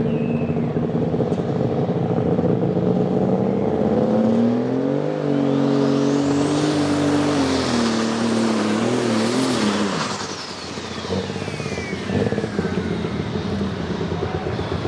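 Super Stock pulling tractor's turbocharged diesel engine running, then revving up under load about four seconds in with a high turbo whistle climbing and holding. About ten seconds in the engine note wavers and drops off, and the turbo whine falls away as it spools down: a short pull that did not go the distance.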